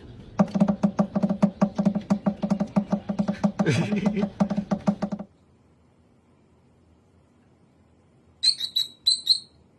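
A fast, regular pulsing sound over a low steady tone for about five seconds, then after a pause two or three short, high-pitched bird chirps near the end.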